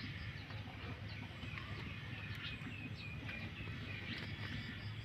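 Small birds chirping, a run of short high chirps through the middle, over a steady low rumble.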